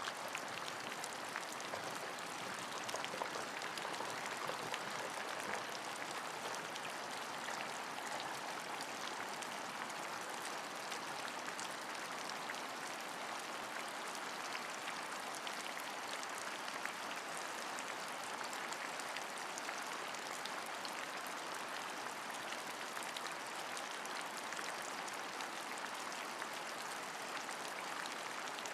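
Steady rain: an even hiss flecked with many small drop ticks, unchanging throughout.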